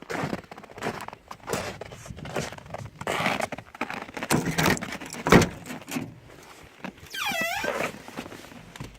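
Someone getting into a car before a cold start: irregular rustling and knocks, a car door shutting with a heavy thump about halfway through, then a brief wavering creak near the end. The engine is not yet running.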